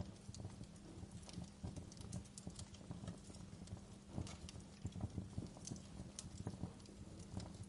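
Wood fire in a fireplace crackling: irregular snaps and pops of burning firewood over a low, steady rumble of flames.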